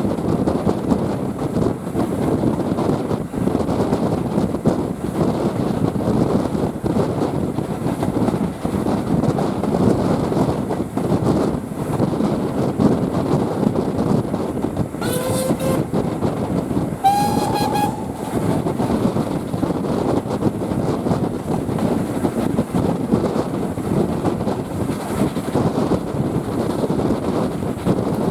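A steam train running, with a continuous rumble and clatter of wheels on the rails. About halfway through, the locomotive's whistle sounds twice: a short lower blast, then a longer, higher one.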